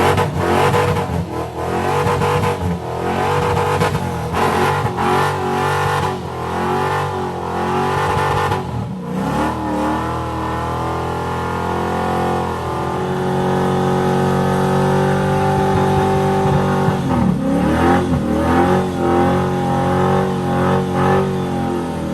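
Car engine revving hard during a burnout, with spinning rear tires hissing and squealing on the pavement. The revs jump up and down in short bursts for the first half, then hold high and steady, dropping briefly and climbing back about two-thirds of the way through.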